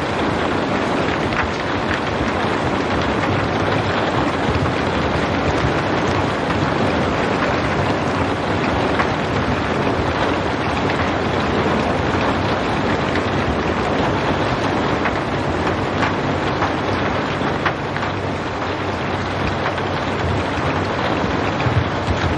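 Steady rain falling: a dense, even hiss with faint scattered drop ticks and no thunder.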